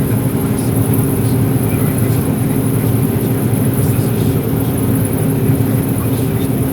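John Deere 9760 STS combine running steadily while harvesting corn: a constant drone of the diesel engine and threshing machinery with a steady high hiss over it.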